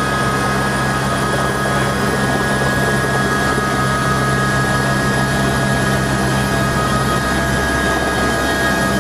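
Helicopter running steadily: a constant rotor and turbine drone with a steady high whine over it.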